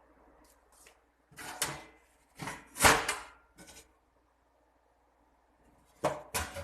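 A few short knocks and scrapes of household things being handled, in separate bursts; the loudest comes about three seconds in and the last near the end.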